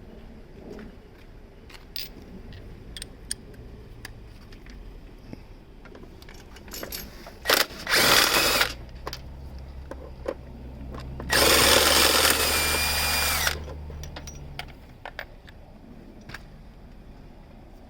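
Handheld power tool running in three bursts as the engine mount's 13mm bolts are loosened: a brief blip, a run of about a second, then a longer run of about two seconds about halfway through. Light clicks and knocks of tool handling come before.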